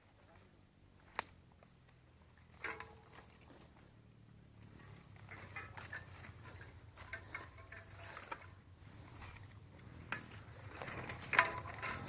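Bicycle moving through soft, deep mud: irregular clicks, squelches and crackles, with a sharp click about a second in and louder ones near the end.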